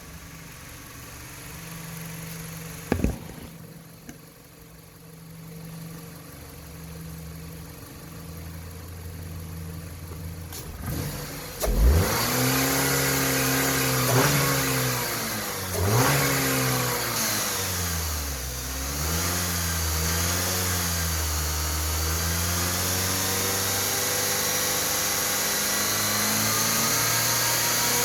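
2014 Dodge Avenger 2.4-litre four-cylinder engine on a test run. After a faint low hum and a single click, it comes up loudly about twelve seconds in and is revved up and down a few times. It then settles to a steady idle.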